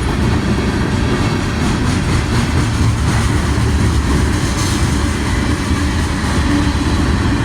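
Norfolk Southern freight train passing at close range: a steady rumble and clatter of steel wheels on the rails.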